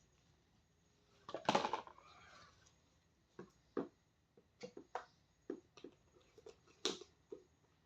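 Rustling handling noise about a second and a half in, then a string of light knocks and taps as vegetables and containers are handled and packed by hand.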